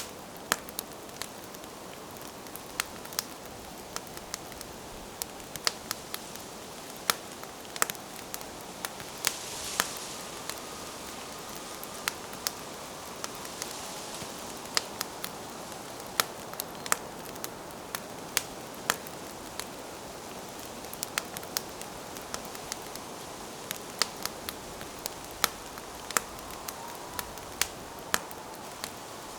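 Wood campfire burning: sharp, irregular crackles and pops over a steady hiss, with the hiss swelling briefly a couple of times.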